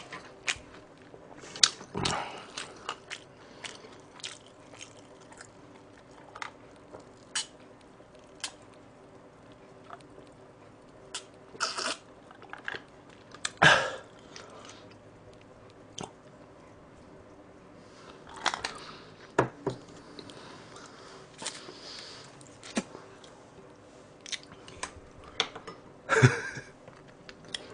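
Close-miked eating: chewing and biting with crisp crunches and wet mouth noises, in scattered short bursts. About halfway through there is a drink from a cup.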